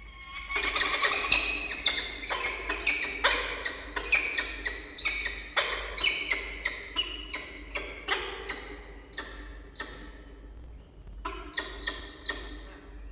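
Peregrine falcon calling at the nest: a rapid run of harsh, repeated calls, about two to three a second. They break off briefly near ten seconds and start again for a short burst.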